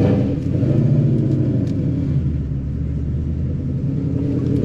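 Ford Mustang GT's 5.0 V8 on BBK long-tube headers, an X-pipe and Roush mufflers, pulling away in first gear, heard from the cabin. The exhaust rumble swells right at the start, then holds fairly steady.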